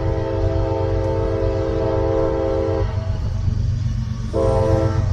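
CSX diesel locomotive's multi-tone air horn sounding one long blast that stops about three seconds in, then a second blast starting near the end, over the steady low rumble of the locomotive.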